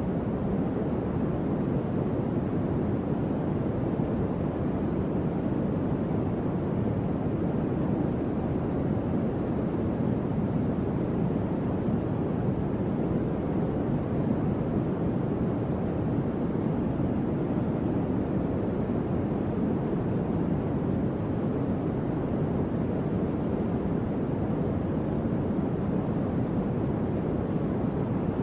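Electric fan running steadily: an even, low rushing whoosh of moving air with no changes.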